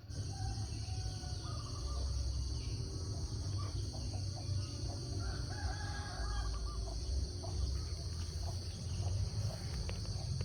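Bird calls, with one longer held call a little past the middle, over a steady high drone typical of insects and a constant low rumble.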